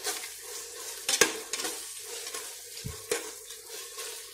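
Sliced onions and tomatoes sizzling in oil in a pressure cooker as they are sautéed and stirred with a metal ladle. The ladle gives two sharp knocks against the pot, about a second in and about three seconds in.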